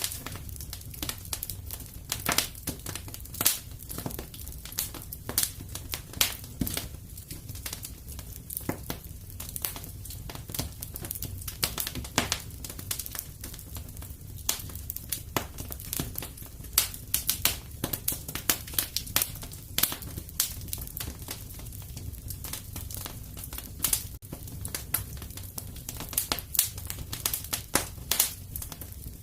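Wood fire in a fireplace crackling, with irregular sharp pops several times a second over a low, steady rumble.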